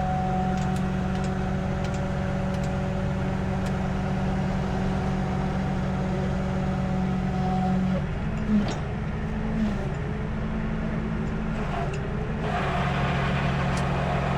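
A tow truck's engine runs with the PTO engaged, a steady whine over the running note. The whine drops off about eight seconds in, followed by a light clank. Near the end a broader, hissier noise comes in over the engine.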